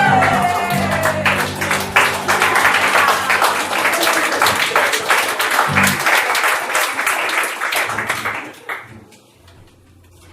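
Audience applauding at the end of a song, over a sustained final chord from the band. The applause dies away about eight seconds in.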